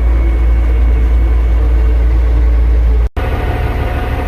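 Caterpillar D6D bulldozer's diesel engine running with a loud, steady low rumble. About three seconds in the sound drops out for an instant, and a low engine sound with a more pulsing beat follows.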